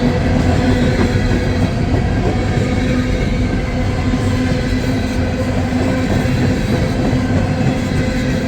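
Empty coal hopper cars of a long freight train rolling slowly past: a steady rumble of steel wheels on rail with a continuous ringing tone over it.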